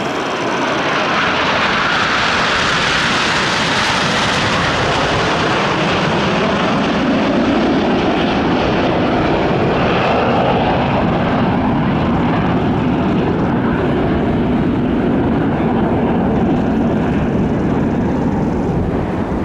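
Aermacchi MB-339 PAN jet trainers flying past on their single turbojets, a loud steady jet noise. It is brightest and highest in the first few seconds, then settles into a lower, deeper sound as the aircraft move away.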